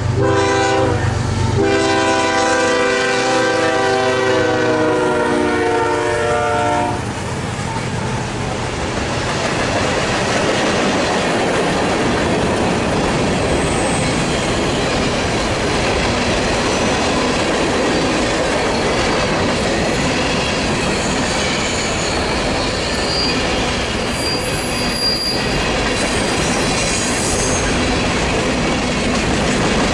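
Train horn chord sounding, a short break about a second in, then a long blast that cuts off about 7 s in. The train then rolls past with a steady rumble of wheels on rail and a few brief high wheel squeals.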